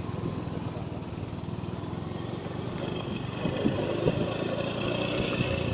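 Small motorcycle engine of a tricycle running steadily, with irregular knocks and rattles from about three and a half seconds in, as it travels over rough ground.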